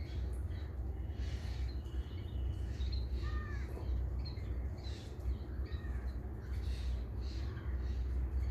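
Birds calling: a few harsh, arching caw-like calls and scattered short high chirps, over a steady low rumble.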